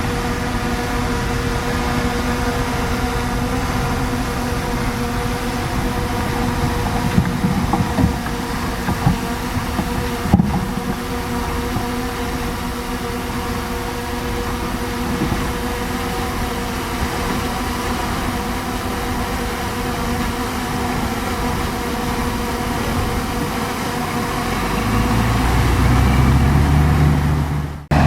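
Bulldozer's diesel engine running steadily, with a few sharp clanks about eight to ten seconds in. Near the end the engine grows louder and deeper, then cuts off suddenly.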